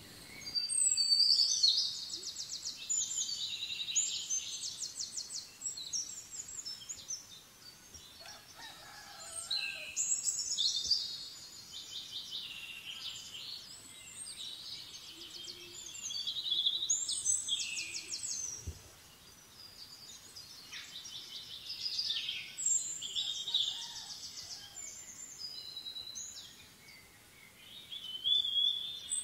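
Songbirds singing: high chattering phrases with quick trills, repeating every few seconds.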